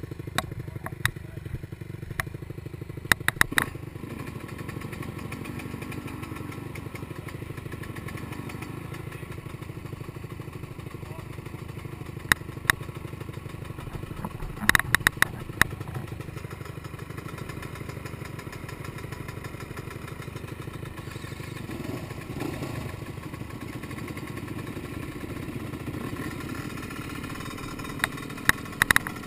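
Yamaha YZ125 two-stroke dirt bike engine running steadily at low revs, with sharp knocks or clacks now and then.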